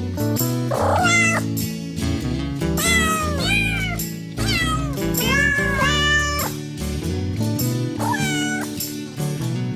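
Domestic cat meows, repeated about once a second, over music with a bass line that steps from note to note.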